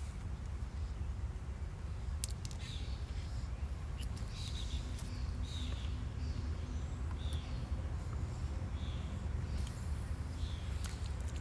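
Birds calling with a series of short chirps, about one every second, over a steady low rumble, with a few sharp clicks.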